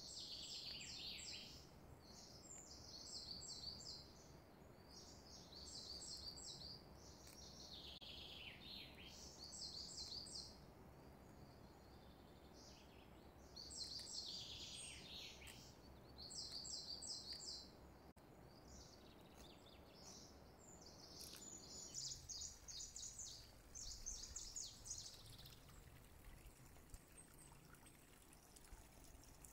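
Faint birdsong: short bursts of high chirping and twittering every second or two, some phrases sliding downward, over a low steady background hum.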